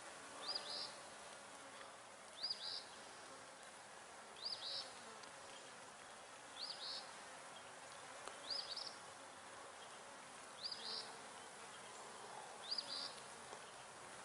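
Honey bees buzzing steadily around the hive entrance. Over it, a bird repeats a short high call of two or three quick notes about every two seconds, seven times, louder than the buzzing.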